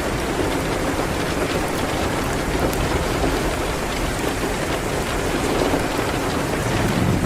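Steady rain hitting a window, with small crackles from a fireplace and a steady low rumble underneath.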